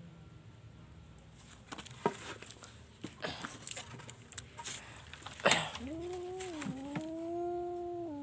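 A cat giving one long, drawn-out meow lasting about three seconds that rises, dips briefly, holds and then falls away at the end. Before it come light clicks and rustling and one sharp knock.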